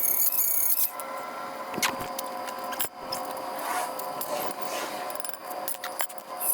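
High-speed rotary tool with a tungsten carbide bit, run at about 15,000 RPM, whining steadily as it grinds out a weld, with scraping and a few sharp clicks. A shrill cutting sound at the start drops away after about a second.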